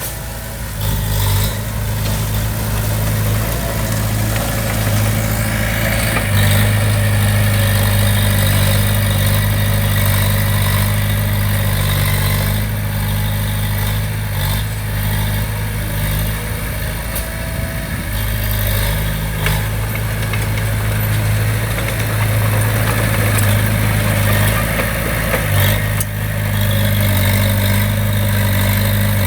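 Heavy construction machine's diesel engine running steadily, its note stepping up and down as the load changes, with a few metallic clanks.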